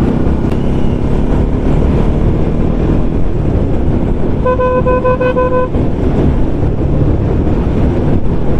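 Steady engine and wind noise of a motorcycle on the move, with a vehicle horn sounding a quick run of short beeps about four and a half seconds in, lasting about a second.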